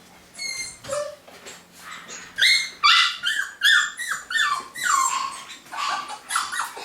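Young Cavapoo puppies yipping and whimpering: a few scattered cries, then from about two seconds in a quick run of short high-pitched yelps, several a second.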